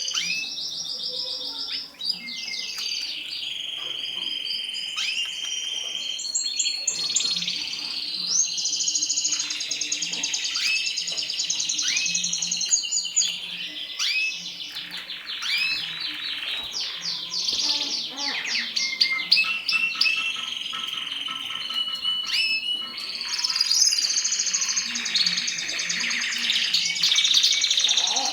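Mosaic canaries singing: a continuous, varied song of fast trills, rapidly repeated chirps and short sweeping notes.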